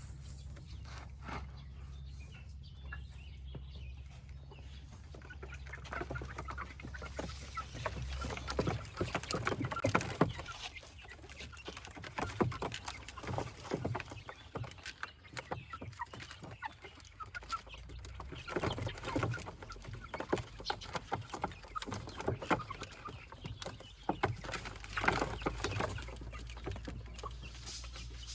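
Chickens clucking, with many short irregular clicks and taps among the calls.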